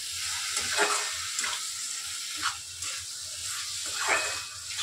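Chopped onion and tomato sizzling in butter and oil in a kadhai, with a metal spatula stirring and scraping across the pan in several separate strokes.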